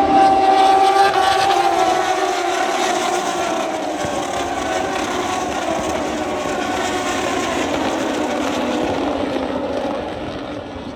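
Moto2 race bikes with Triumph three-cylinder engines passing at speed. Their engine note is loudest at the start, then falls in pitch and fades as they pull away down the track.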